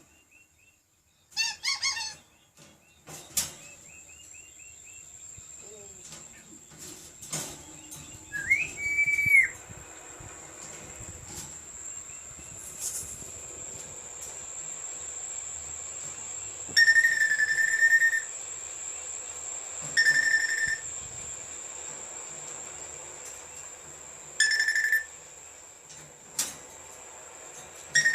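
African grey parrot whistling: one rising whistle, then several short level whistles on the same pitch, with a few clicks and a chirpy burst near the start. A steady high-pitched tone runs underneath.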